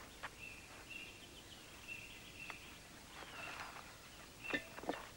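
Faint outdoor birdsong: short, high, steady chirps repeating, busier about three seconds in, with a few soft clicks near the end.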